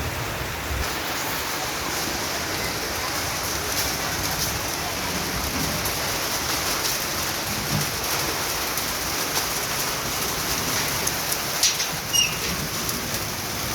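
Rain falling steadily, an even hiss, with a few sharp ticks a little before the end.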